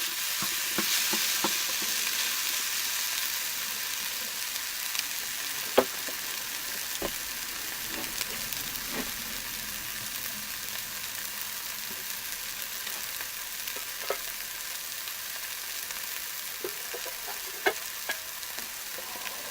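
Eggs for an omelette sizzling in an 8-inch electric skillet: a steady frying hiss with scattered sharp pops.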